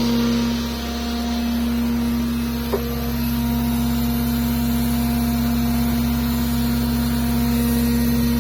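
Deutz engine running at a steady speed with an even, unchanging note, and one brief click about three seconds in.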